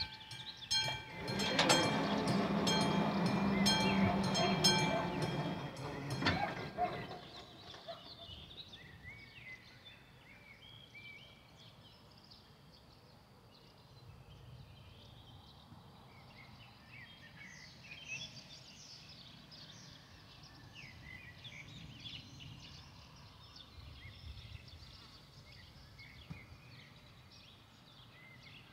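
A passenger train passing over a level crossing while the crossing's mechanical warning bell strikes rapidly and rings. Both stop about six and a half seconds in, leaving birdsong over a quiet background.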